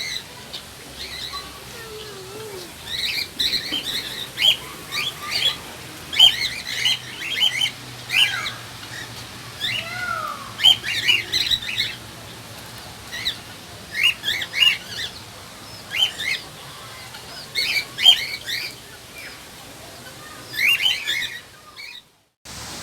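Birds calling in an aviary: a busy run of short, sharp, repeated squawks and chirps, with a few lower sliding whistles among them.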